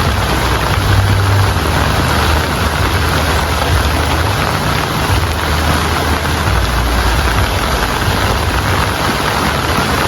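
Steady heavy rain falling, an even hiss with a continuous low rumble beneath it.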